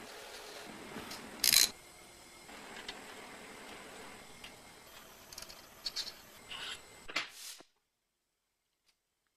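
Workshop hand-tool noises on metal parts: rubbing and scraping with scattered clicks, and one short, loud burst of noise about a second and a half in. The sound cuts off abruptly a couple of seconds before the end.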